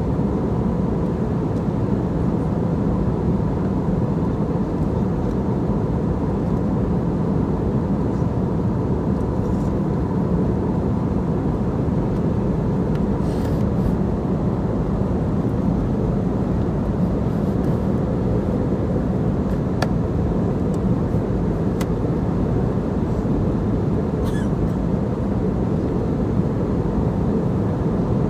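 Steady cabin rumble of an airliner in flight, a low even roar of engine and airflow noise with a faint steady tone. A few faint brief ticks sound now and then.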